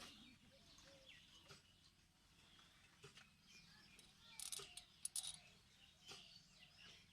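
Near silence with faint bird chirps, and a few light clicks a little over four seconds in.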